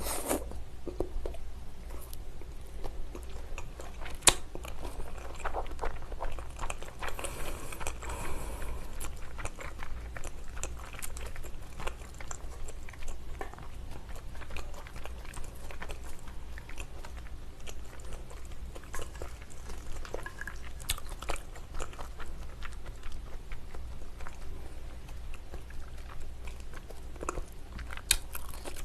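Close-miked chewing and wet mouth sounds of a person eating salmon sashimi, with many small clicks throughout and one sharper click about four seconds in.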